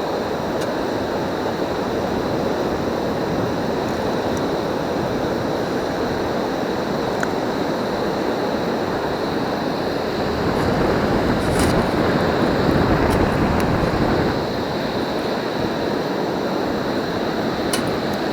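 Sea surf washing steadily on the beach, with a wave surging louder about ten seconds in and easing off about three seconds later.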